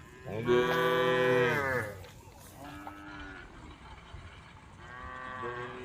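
Cows mooing: one loud, long moo near the start, then two shorter, quieter moos, the last near the end.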